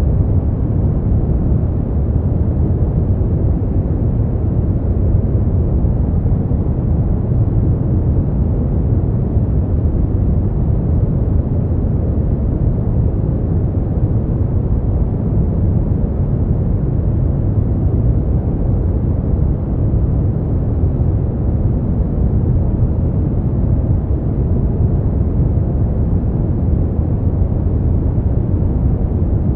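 Synthetic brown noise: a steady, deep rumbling hiss, strongest in the bass and fading out toward the treble, unchanging throughout.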